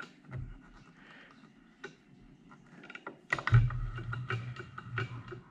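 Light clicks and taps of metal workshop tooling being handled. About three and a half seconds in there is a sharp knock, and a steady low hum starts and keeps going.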